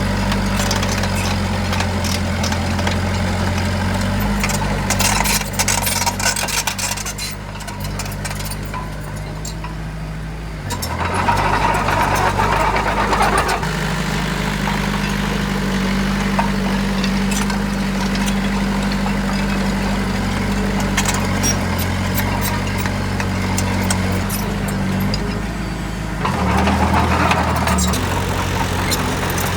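Heavy diesel engine of construction machinery running, its speed and load shifting a few times, with scattered clanks and rattles over it.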